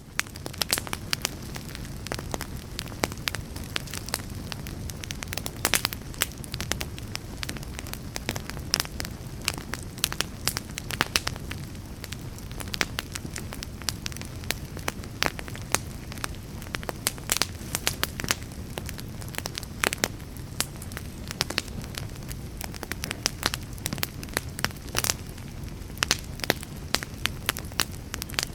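Wood fire burning, with a steady low rumble of flames and frequent irregular crackles and sharp pops from the burning logs.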